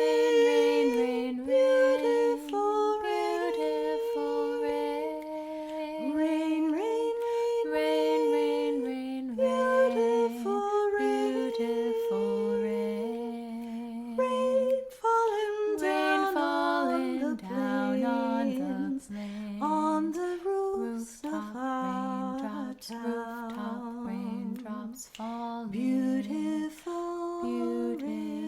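Two women's voices singing unaccompanied in two overlapping parts, held notes with vibrato moving step by step, as in a round.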